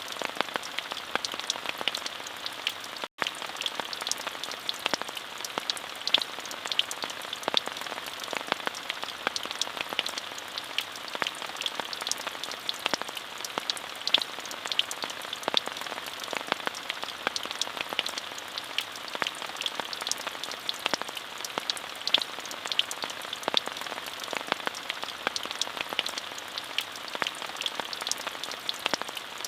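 Steady rain falling, with many distinct drop ticks over an even hiss. The sound cuts out for a split second about three seconds in.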